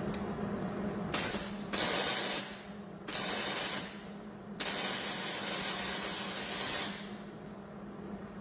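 Hobart MIG welder arc laying short stitch welds on hot-rolled steel. There are three bursts of hissing crackle, the last about two seconds long, over a steady low hum.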